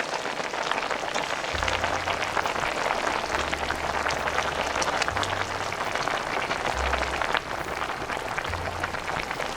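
Pot of noodle broth boiling hard: a dense, steady crackle of popping bubbles. A low hum runs underneath, stepping between pitches every second or two.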